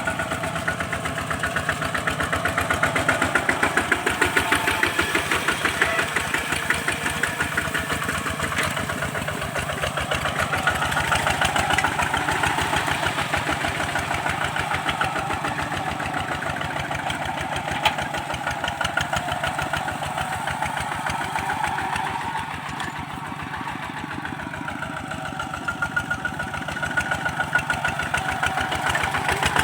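Kubota walking tractor's single-cylinder diesel engine running steadily with a fast, even firing beat; it eases off for a few seconds late on, then picks up again.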